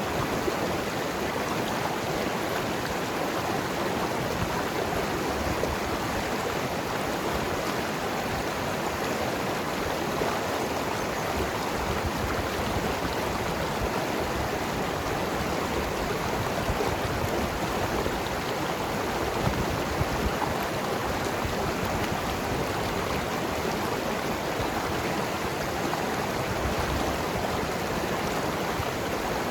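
Mountain river flowing and gurgling over rocks, a steady rush of water without breaks.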